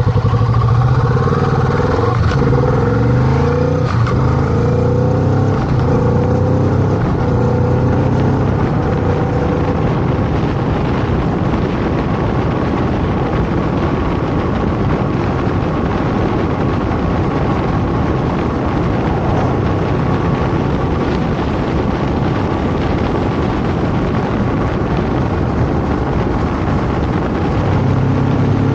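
Kawasaki Vulcan motorcycle engine pulling up through the gears, its pitch rising several times in a row over the first ten seconds or so. It then cruises at a steady speed under a constant rush of wind noise, and the engine note comes through again near the end.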